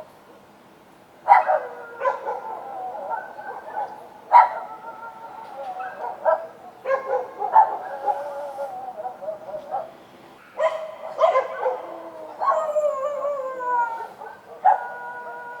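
Street dogs barking and howling. After a brief lull about a second in, sharp barks come again and again, broken by drawn-out howls that slide down in pitch.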